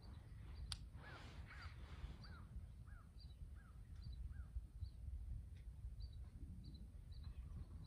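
Birds calling faintly: a run of about six short rising-and-falling calls, roughly one every half second, over repeated short high chirps from a second bird, with a low rumble of background noise.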